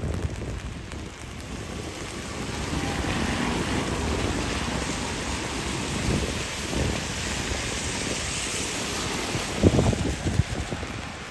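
Wet-street ambience: tyres hiss on rain-soaked pavement as traffic passes, swelling through the middle and easing off, while wind buffets the microphone. A few gusts or low thumps come near the end.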